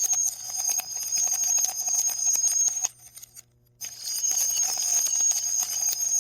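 Marbles rolling and clattering through a marble run: rapid, dense clicks over a steady high ringing tone. The sound drops out for under a second about halfway through.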